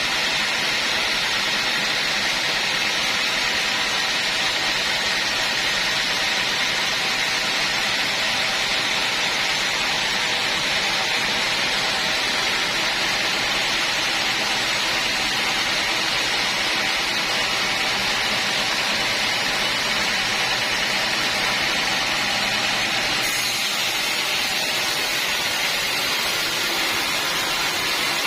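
Sawmill machinery running steadily: a constant hissing rush with a faint hum, its upper edge dropping slightly about 23 seconds in.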